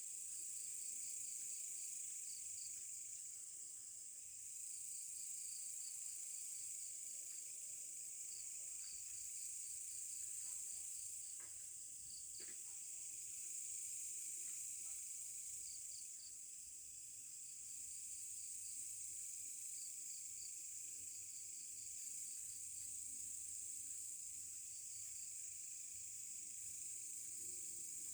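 Insects calling: a steady high drone with short chirps repeating in quick groups, and two faint clicks about halfway through.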